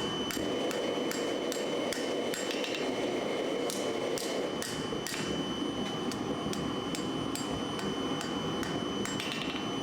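Hammer striking hot steel on an anvil in steady blows, about two to three a second, each with a bright metallic ring, over a steady rushing noise.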